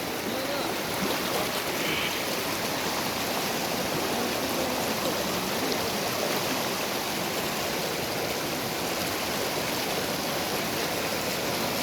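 A small river running steadily over stones, a continuous rushing and gurgling of water.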